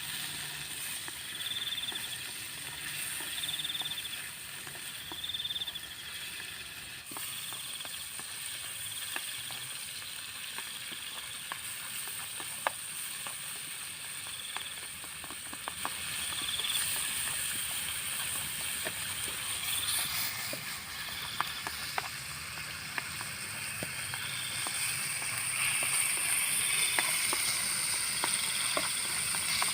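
Paddy snails and banana stem sizzling as they stir-fry in a pan, with scattered sharp clicks. A short chirping call repeats about every second and a half in the background.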